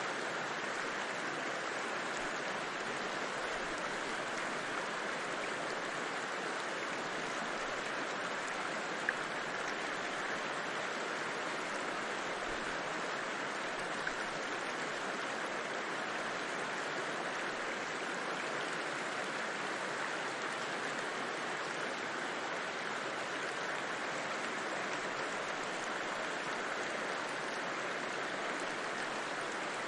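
River water rushing over rocks in a steady, even wash with no breaks.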